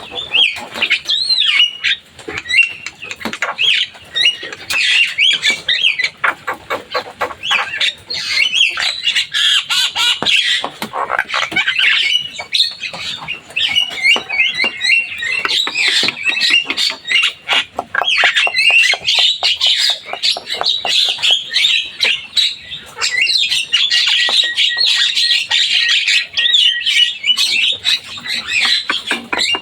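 Javan myna (jalak kebo) singing without pause: a dense, unbroken run of harsh calls, wavering whistled notes and sharp clicks, mostly high in pitch.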